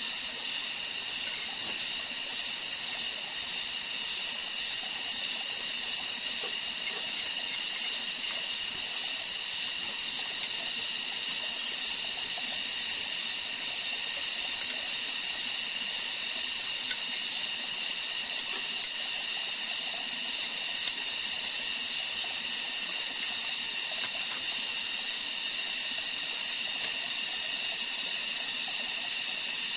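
A steady, high-pitched hiss that never lets up, with a few faint clicks about two-thirds of the way through.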